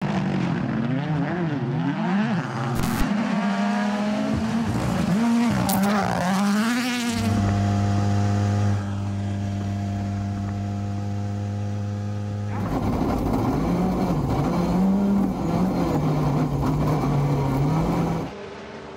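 Rally car engines revving hard and changing gear, the pitch climbing and dropping repeatedly. In the middle the engine note holds at one steady pitch for about five seconds before the rising and falling starts again.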